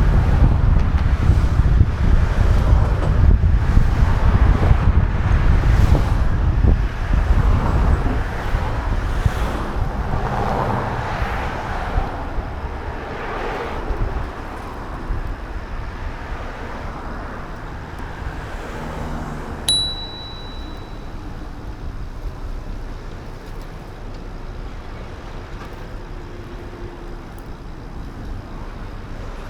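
Wind buffeting the action camera's microphone while riding, with road noise underneath; the rushing eases off over the first half. About two-thirds through, a bell gives a single clear ding that rings for about a second.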